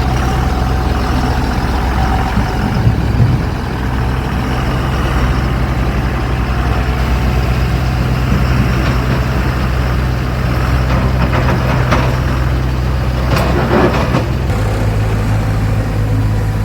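Heavy vehicle engine running steadily at a low even pitch. A few sharp knocks come near the end, and the engine note shifts to a different pitch shortly before the end.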